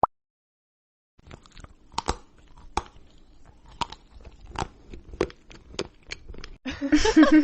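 Crunchy food being bitten and chewed, a run of sharp irregular crunches starting about a second in. Near the end a louder voice-like sound with a gliding pitch comes in.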